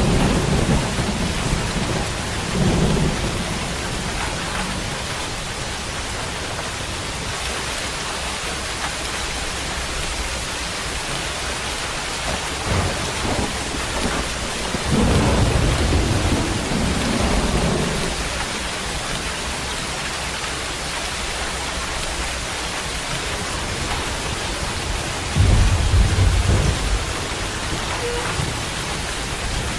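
Steady rain falling, with low rumbles of thunder swelling up several times: briefly near the start, for a few seconds in the middle, and most strongly near the end.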